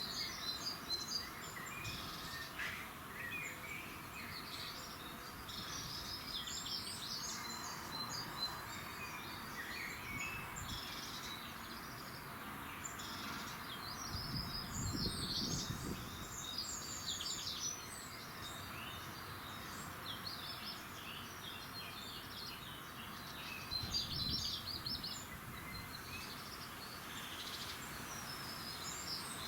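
Dawn chorus of several small songbirds, overlapping chirps and trills over a steady background hiss, with a brief low rumble about halfway through and again near the end.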